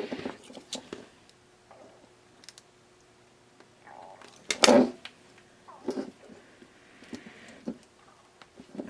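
Scattered clicks, taps and rattles of small parts and hand tools being handled on a workbench, with one louder knock about halfway through, over a faint steady hum.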